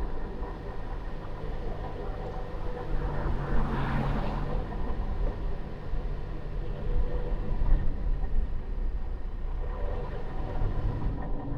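A car driving through city streets: a steady low rumble of engine and road noise, with a brief swell of louder noise about four seconds in.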